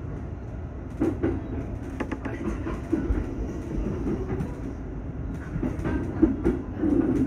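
Electric commuter train running on the rails: a steady low rumble, with the wheels clacking over rail joints now and then.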